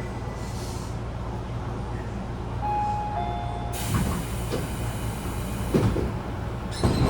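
Inside a Tobu 10000 series electric train car, a steady low hum runs throughout. Partway through, two short tones sound, the second lower than the first. A sudden hiss then starts, along with several heavy clunks, the last and loudest near the end.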